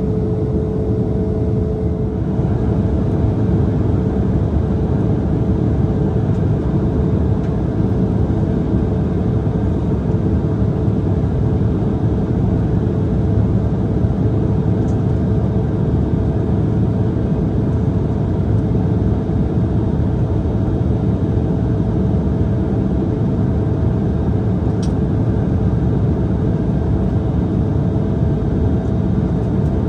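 Steady cabin noise inside an Embraer E170 jet in flight: a broad rumble of its CF34 turbofan engines and the airflow, with a faint steady hum through it. A second, lower tone fades out about two seconds in.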